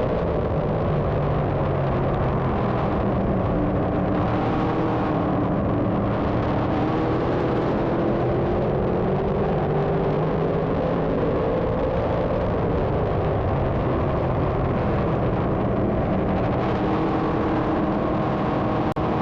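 A field of 358 small-block dirt modifieds running on the track together, many engines droning at once, their pitches rising and falling as the cars go around.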